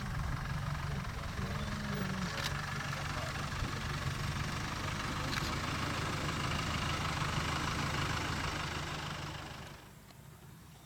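Safari vehicle's engine idling steadily, then cutting off suddenly near the end.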